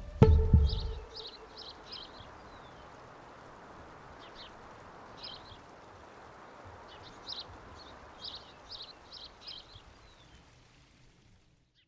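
A last plucked-string chord rings out and dies away, then a small bird calls in quick runs of short high chirps, three to five at a time, over a faint outdoor hiss that fades out near the end.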